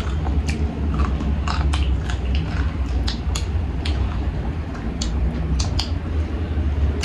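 Close-up chewing and biting of meat eaten by hand, with many short wet mouth clicks and smacks scattered throughout, over a steady low hum.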